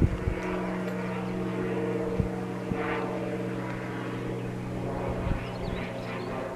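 A steady low engine hum with several even pitches, holding level throughout, with a few short knocks on the microphone near the start.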